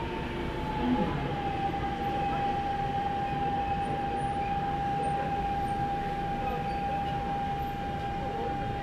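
Daegu Metro Line 1 train running, heard inside the car: a steady rumble of wheels on track. Over it sits a single steady whine from the train's traction motor drive, which slides down slightly in pitch about a second in and then holds until near the end.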